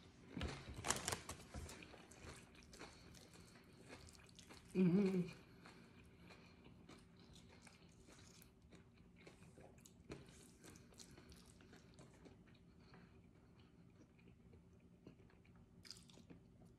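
Close-mic chewing and biting of chips loaded with burrito-bowl filling, with crunching that is strongest in the first two seconds and then fades to soft chewing. A short hummed "mm" comes about five seconds in.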